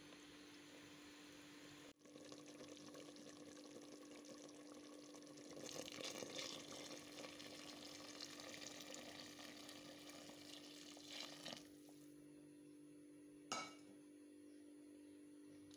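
Chicken frying in onion and tomato in a metal pot, sizzling, then hot water poured in so the pot sizzles and bubbles louder for several seconds before settling down. A single sharp knock near the end.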